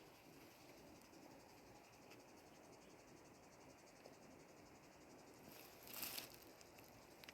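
Near silence with faint, steady high chirring of insects such as crickets. A brief rustle about six seconds in.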